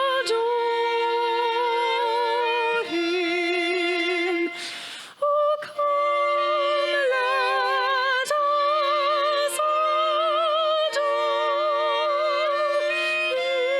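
Solo singing in long, held notes with vibrato over a sustained instrumental accompaniment, with a brief breath between phrases about five seconds in.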